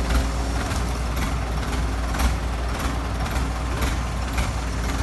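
Excavator's diesel engine running steadily while it scoops soil, with a few short knocks.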